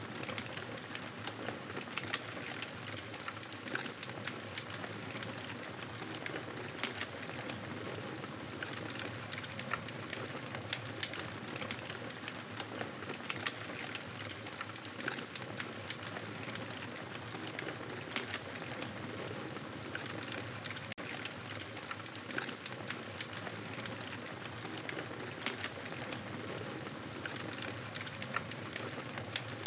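Campfire crackling steadily: a soft continuous hiss of burning wood with frequent irregular sharp pops and snaps.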